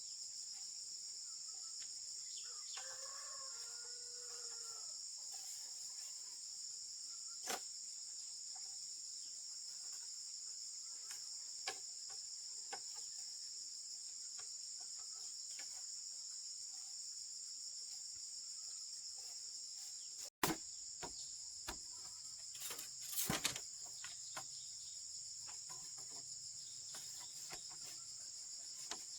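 Steady high-pitched chorus of crickets, with a short bird call a few seconds in. Scattered sharp knocks and clatter from work at hand are heard, bunched together about two-thirds of the way through.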